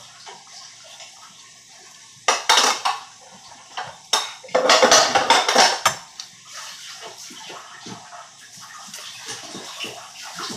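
Utensils clinking and scraping against a noodle bowl, with two louder scraping bursts a few seconds apart among scattered light clicks.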